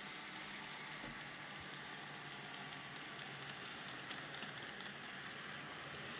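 N gauge model trains running round the layout: a steady faint whirring rattle of wheels on track, with faint irregular clicks and a slightly sharper click about four seconds in.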